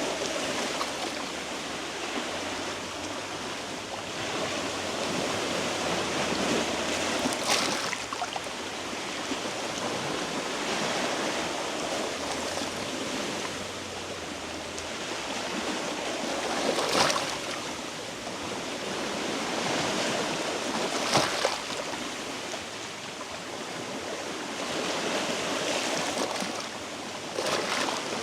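Sea waves washing against shore rocks, swelling and easing every few seconds, with a few sharper splashes, four times.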